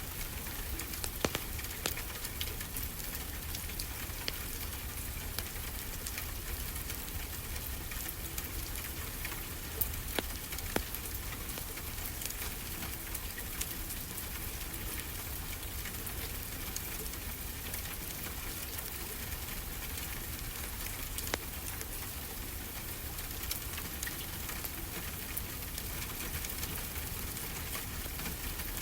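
Fireplace crackling, with a few sharp pops scattered over a steady hiss of ocean waves washing ashore.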